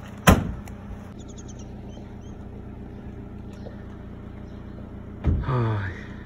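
A car engine idling with a steady low hum. A single sharp bang comes about a third of a second in, and a brief call falling in pitch comes near the end.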